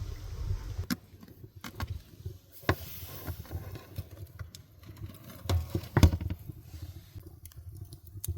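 Scattered light clicks and knocks, irregular, with a heavier knock about six seconds in.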